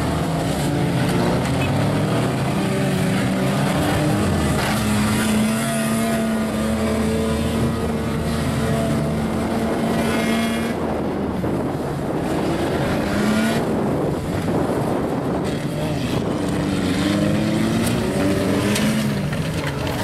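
Several car engines running together, revving up and down, with their pitch rising and falling again and again.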